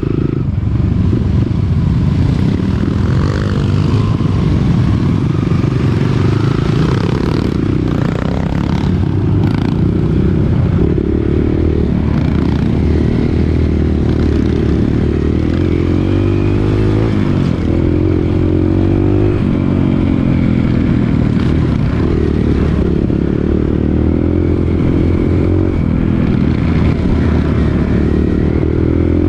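Dirt bike engine running while being ridden off-road, its pitch rising and falling with the throttle, with some clattering and scraping around seven to ten seconds in.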